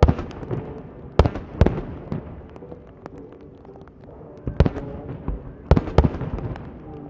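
Fireworks bursting: a run of sharp bangs, about six, in two groups (one right at the start and a pair about a second in, then another three from about four and a half seconds), each followed by fading crackle.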